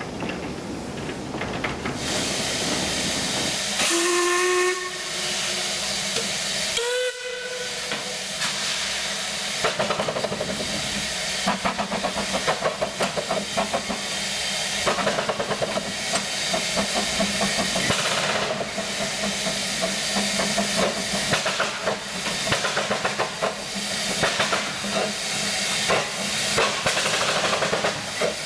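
Narrow-gauge steam locomotive giving two short whistle blasts, the second higher in pitch, over a loud hiss of escaping steam, then pulling away with a fast, even beat of exhaust chuffs.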